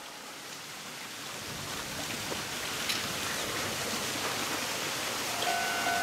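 Kominato Railway diesel railcar approaching along the track, its running noise growing steadily louder. Near the end a pulsing high tone sets in.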